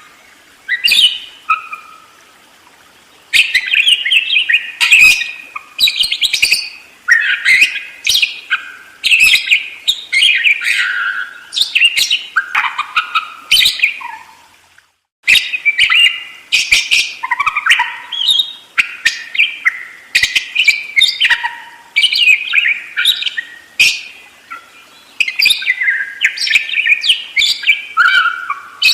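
Budgerigar (parakeet) chattering and warbling in rapid, continuous chirps and gliding notes, with a short lull about two seconds in and a brief break midway.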